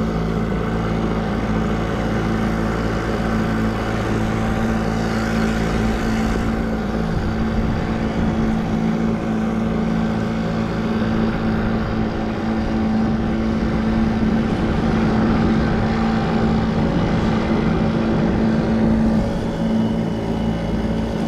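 Boat's outboard motor running steadily at trolling speed, with a constant even hum.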